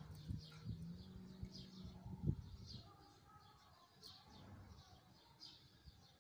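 Small birds chirping in the background, a short high chirp about every second or so. A low hum in the first two seconds and a few dull thumps, the loudest about two seconds in.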